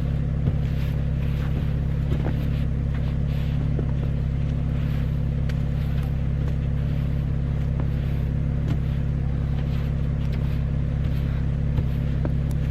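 A car engine idling steadily while it warms up in the cold. Over it come soft, repeated swishes and scrapes of snow being brushed off a vehicle.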